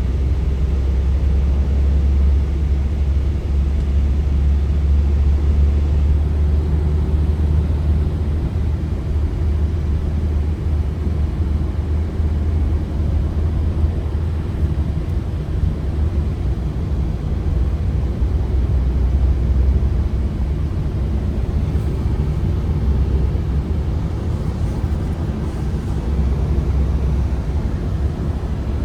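Ford Transit Connect van on the move, its petrol engine and road noise making a steady low rumble with no clear gear change or rev rise.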